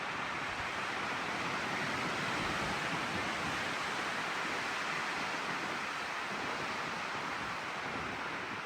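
Steady rushing of strong wind through the trees in a windstorm, an even noise that holds level.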